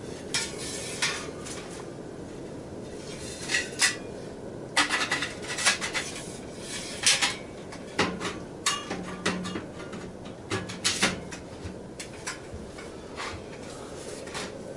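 Stainless-steel camping stove parts clinking and clanking as they are handled and fitted together, in irregular metal knocks that come thickest and loudest in the middle.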